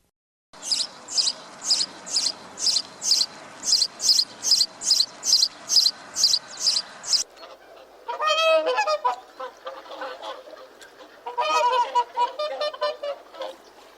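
Animal calls, most likely birds: a rapid, even series of short, high chirps, about three a second, then after a cut two bouts of lower, wavering, honk-like calls.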